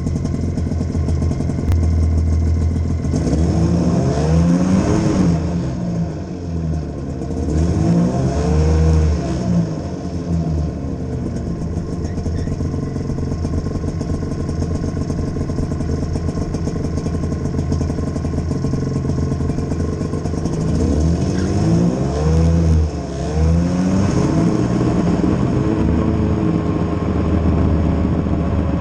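Vehicle engine running, revved up and eased back down four times, in two pairs near the start and in the second half, holding a steady drone in between.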